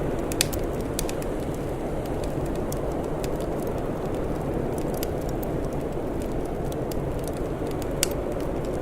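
Wood fire crackling, with scattered sharp pops, two louder ones about half a second in and near the end, over a steady low rushing noise.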